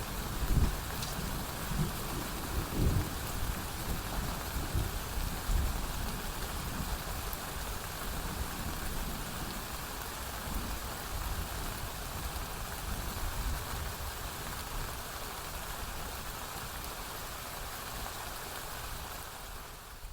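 Steady rain falling, an even hiss with a few brief low thuds in the first several seconds. It fades out at the very end.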